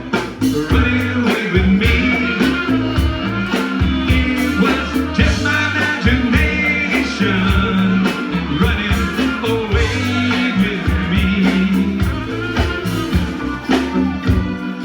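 Live band playing an instrumental passage of a soul-pop medley through a Sound Town line-array PA with subwoofers: a steady bass line and drums under a bending melodic lead line.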